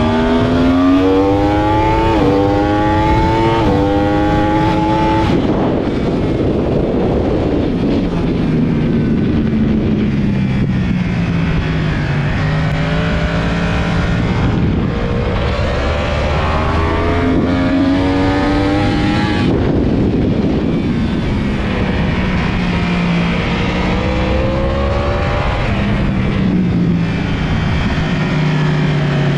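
Yamaha YZF-R1 inline-four engine at racing speed, revving up through two quick upshifts in the first five seconds, then dropping and rising again through corners. Heavy wind rush on the microphone throughout.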